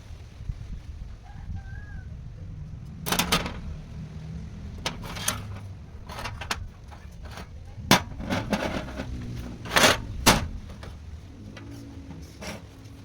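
Irregular sharp knocks and clatter, about half a dozen, the loudest near the two-thirds mark, over a low steady hum. A brief faint pitched call, rooster-like, sounds about one and a half seconds in.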